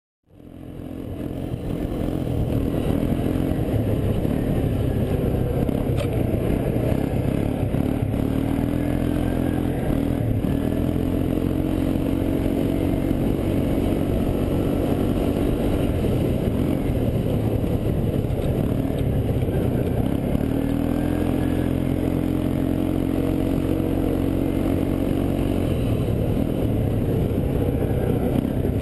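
ATV engine running while being ridden, fading in over the first two seconds, its pitch rising and holding twice as the throttle is opened, with some clatter.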